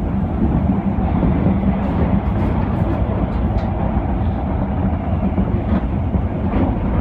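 Osaka Municipal Subway Tanimachi Line 22 series car running between stations, heard from inside the car: a steady low rumble of wheels on rail with a few faint clicks.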